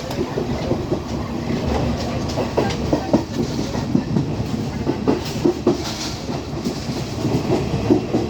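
Class S12 diesel multiple unit running along the track: a steady rumble with irregular clicks and knocks from the wheels passing over rail joints.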